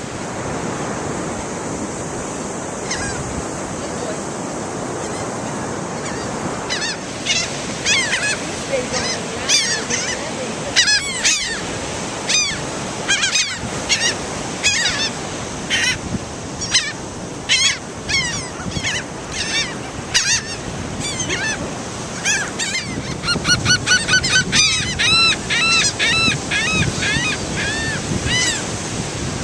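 Seagulls calling over steady ocean surf. From about seven seconds in there are many separate harsh calls, and around two-thirds of the way through there is a quick run of repeated calls.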